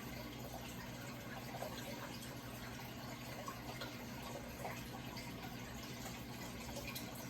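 Running water trickling and splashing steadily, over a low steady hum.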